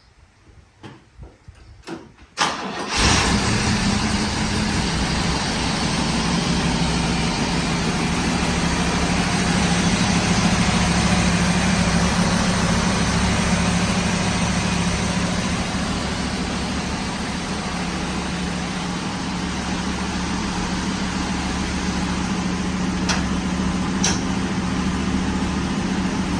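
1968 Chevrolet Camaro engine on a cold start: a couple of seconds of quiet, uneven cranking, then it catches with a sudden loud burst about two and a half seconds in and settles into steady running.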